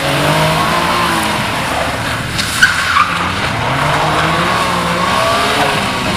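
Small car's engine being revved up and down repeatedly as it is driven hard through a cone course, with tyres hissing on wet tarmac. A brief tyre squeal and a couple of sharp clicks come about two and a half seconds in.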